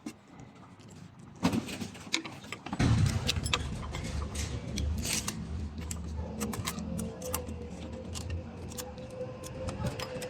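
Sharp clicks and knocks of hard objects handled, then about three seconds in a machine starts and runs with a low steady hum; a steady whine joins partway through, with clicks continuing over it.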